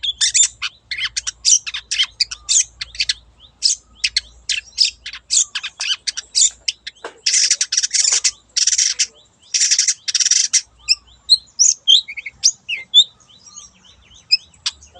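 Long-tailed shrike (cendet) singing a fast, scratchy run of chattering notes. About halfway through come three harsh rasping calls, then the song thins to scattered chirps.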